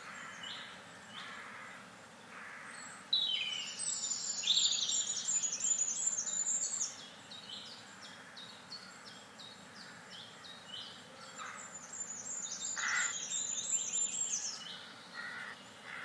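Songbirds singing: runs of quick, high chirps, busiest from about three to seven seconds in and again from about twelve to fifteen seconds in, with sparser calls between.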